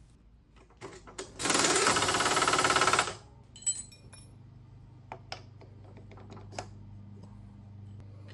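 A rapid rattling hammer burst from an impact tool, about a second and a half long, the kind used to snug a tooling arbor into a milling machine spindle. A low steady hum follows, with scattered light clicks and taps.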